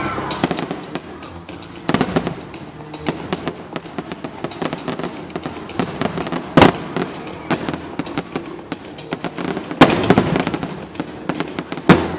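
Aerial fireworks going off: a dense run of sharp crackles and pops, with four louder bangs spread through, the last near the end.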